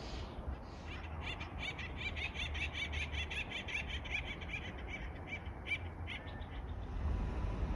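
A bird calling a rapid series of short, repeated chip notes, about six a second, which breaks off a little after six seconds, over a steady low background rumble.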